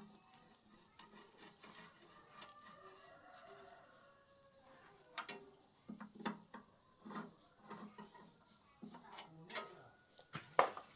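Scattered light clinks and taps of hand tools and metal parts being handled, coming more often in the second half, with a few sharper knocks near the end.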